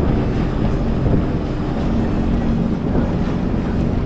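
Jet ski engine running steadily on the water, with wind buffeting the microphone.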